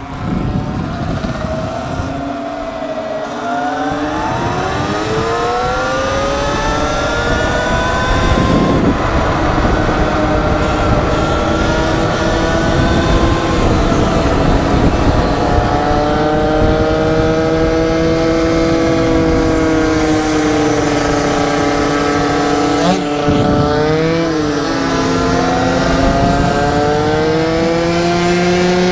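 Gas-powered scooter engine accelerating and holding speed on a ride, its pitch climbing about four to eight seconds in, dipping briefly near twenty-three seconds, then rising again, over a steady rush of wind.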